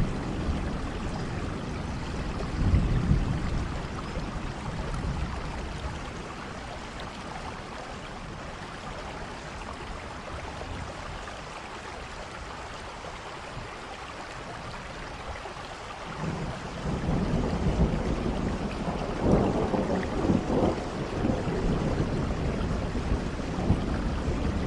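Steady rain, with low rolls of thunder: a short one about three seconds in and a longer, louder one building from about two-thirds of the way through.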